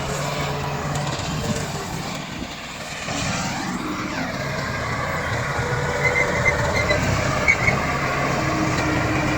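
Komatsu D68 crawler bulldozer's diesel engine running under load as it pushes soil, its pitch rising and falling briefly a few seconds in. A few short high squeaks from the machine, typical of steel tracks, come near the end.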